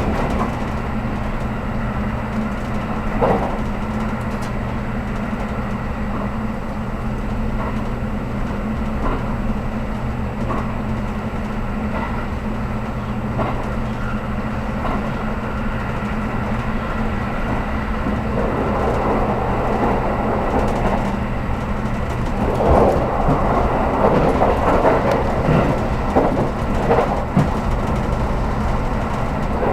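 Steady low hum of a JR Kyushu 783 series electric train's onboard equipment, heard inside the passenger car while the train stands held for a safety check after an abnormal noise was detected. There are a few sharp clicks, and in the second half a louder rushing noise swells up and falls away.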